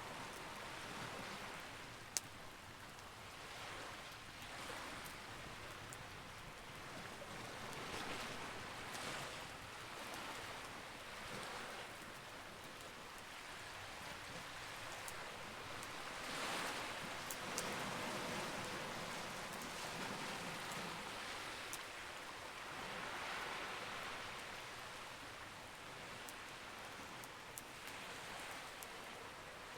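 Campfire burning: a steady crackling hiss that slowly swells and eases, broken by a few sharp pops from the burning wood.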